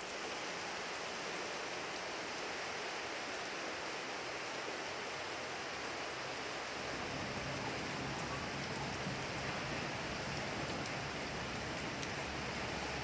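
Steady rain falling, an even hiss with faint scattered drop ticks; a low rumble comes up underneath about halfway through.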